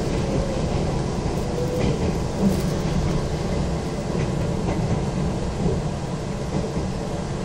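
Izukyu 2100 series 'Resort 21' electric train running, heard from inside the passenger car: a steady rumble of wheels on the rails, with a brief knock about two and a half seconds in.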